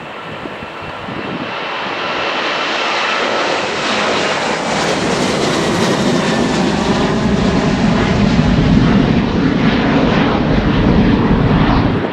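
Jet airliner's engines growing louder as it passes, a high whine early on giving way to a deep rumble that peaks in the second half.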